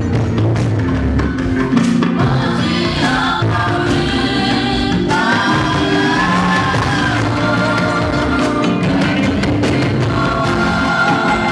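Church choir singing gospel music, continuous with no breaks.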